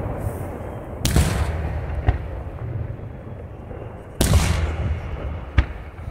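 Daytime fireworks: aerial shells bursting with sharp bangs, two loud ones about a second in and again past the four-second mark, lighter cracks between, over a continuous low rumble.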